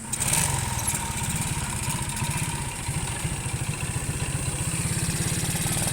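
Motorcycle engine running at idle, with a steady low pulsing beat; it jumps louder right at the start.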